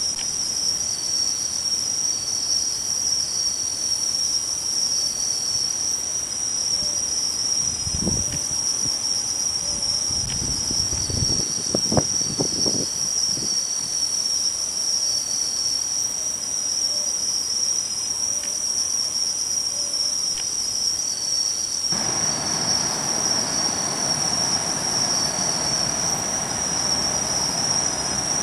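Insects chirping: one steady, high-pitched trill runs unbroken, with a second insect's faint, evenly repeated chirps just below it. About three quarters of the way through, a wide rushing noise rises underneath.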